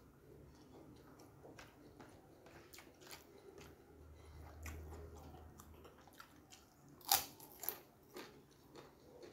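Close-up chewing of a mouthful of rice and fried food. Near the end come two loud, sharp crunches as a crisp yellow kerupuk cracker is bitten, followed by crunchy chewing.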